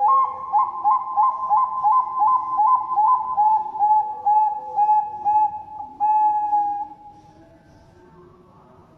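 Zebra dove (perkutut) cooing: a quick run of about fifteen short, bubbling coo notes, roughly two or three a second, ending in one longer drawn-out coo about six seconds in.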